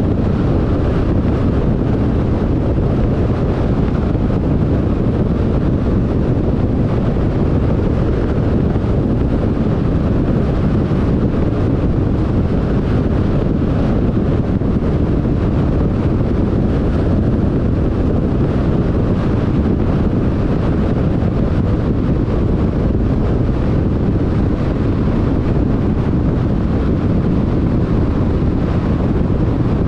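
Steady road noise of a car cruising on a freeway: tyre noise and wind rush, a constant low-heavy rumble that stays even throughout.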